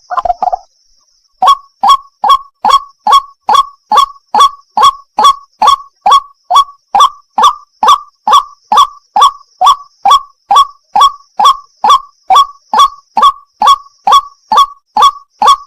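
White-breasted waterhen (wak wak) call: a monotonous, evenly spaced series of short, loud 'wak' notes, each falling in pitch, about two a second. The series starts about a second and a half in, after a different sound breaks off at the very start.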